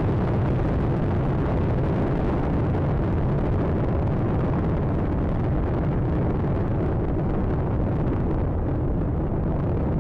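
Space Shuttle Atlantis's solid rocket boosters and three main engines roaring during ascent: a steady, loud, deep rumble of noise, its hiss slowly fading in the second half as the shuttle climbs away.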